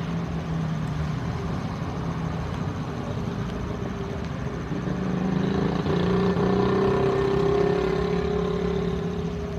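Boeing 737-800's CFM56 jet engines running at taxi power, a steady hum that grows louder about five seconds in and eases near the end.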